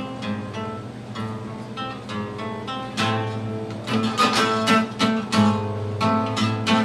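Acoustic guitar playing a song's introduction: picked notes, turning louder about three seconds in with repeated strummed chords.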